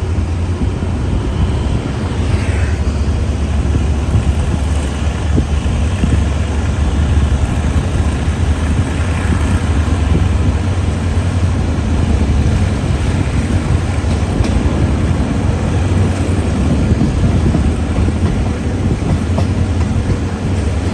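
Diesel-hauled passenger train running along the line: a loud, steady rumble with a deep low hum.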